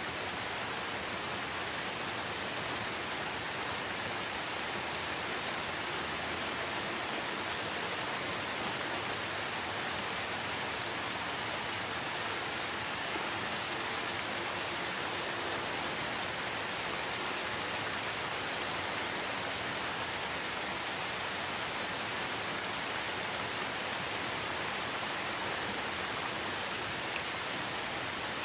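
Steady, even rain falling, with a few faint individual drop ticks.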